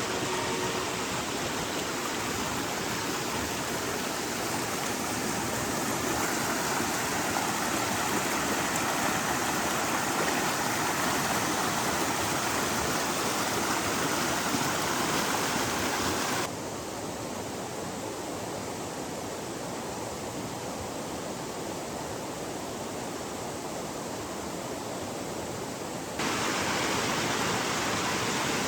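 Creek water rushing steadily over an old mill dam. About sixteen seconds in it suddenly turns quieter and duller, then returns to full strength about ten seconds later.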